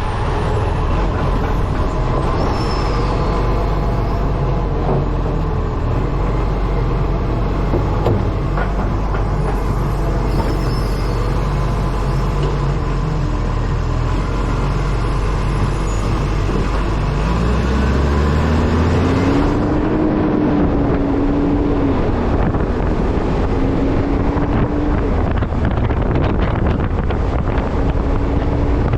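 Iveco ACCO rubbish truck with a Bucher body driving, its diesel engine running under wind noise on a camera mounted on the front of the truck. About two-thirds of the way through, a whine climbs in pitch and then holds.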